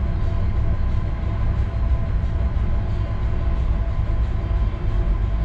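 Ship's engine running with a steady low drone and hum, heard aboard the vessel.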